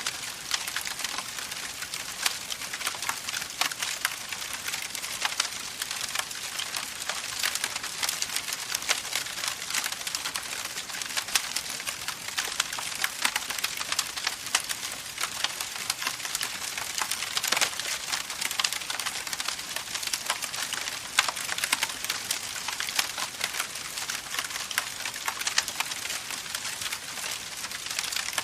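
Campfire of burning wood crackling: a steady, dense run of small snaps and pops over a hiss, with a few louder pops here and there.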